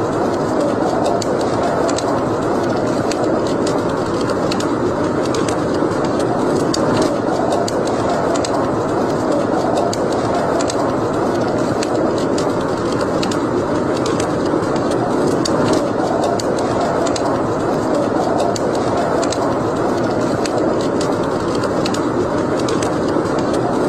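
Wood fire burning in a fireplace: a steady rushing roar with frequent small crackles and pops scattered throughout.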